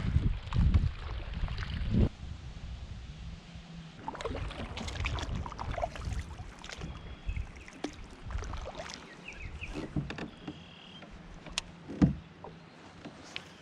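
Wind buffeting the microphone for about the first two seconds, then small knocks, clicks and water sounds from a kayak on choppy water, with one sharp, loud knock about twelve seconds in.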